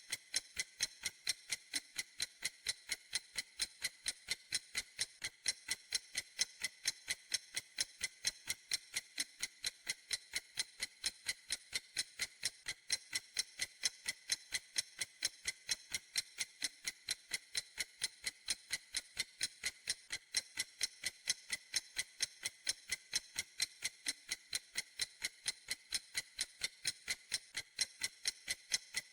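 A clock ticking steadily: sharp, high, evenly spaced ticks, about three a second, with no change in pace or loudness.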